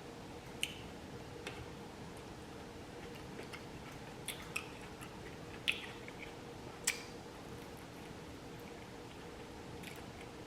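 Quiet close-up chewing of avocado and fried-egg toast, with a few short, sharp mouth clicks and smacks, the loudest two a little past the middle.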